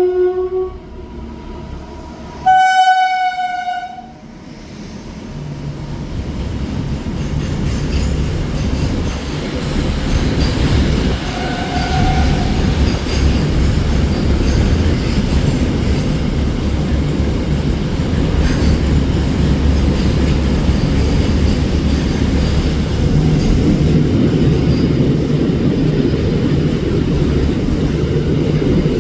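Indian Railways electric locomotive horn giving one short blast about three seconds in, then a fast train's rumble and wheel noise building and running on steadily as it passes, with a faint second horn note around twelve seconds.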